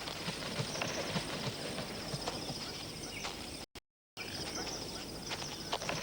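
Irregular light knocks and scuffs of ground hornbills moving and pecking about on dry ground, over a steady high insect-like buzz. About two-thirds of the way through, the sound cuts out completely for under half a second.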